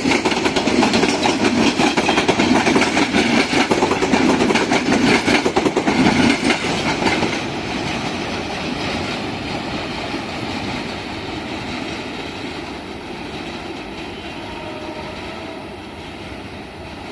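A train passing close by, its wheels clattering rapidly over the rail joints, loud for about the first seven seconds and then fading steadily as it moves away.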